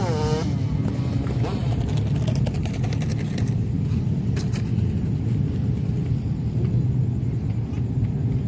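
Steady low rumble of a jet airliner's engines at a distance. A short wavering tone sounds at the very start, and a few faint clicks come a few seconds in.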